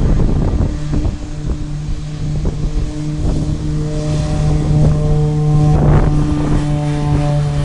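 An engine running steadily with a pitched hum whose higher tones shift about four seconds in, over a rough low rumble like wind buffeting the microphone.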